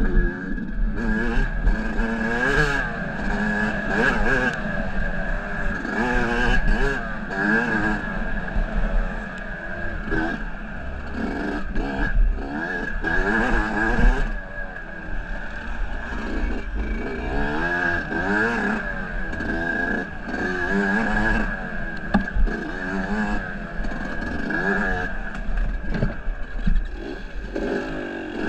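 Engine of an off-road trail vehicle being ridden, revving up and falling back again and again as the throttle opens and closes, under a steady high whine. It is the first ride after the engine seized.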